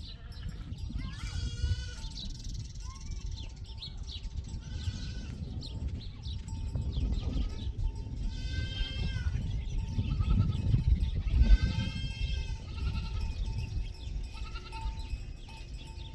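Livestock bleating repeatedly, with wavering calls every second or two, over a steady low rumble that swells about eleven seconds in.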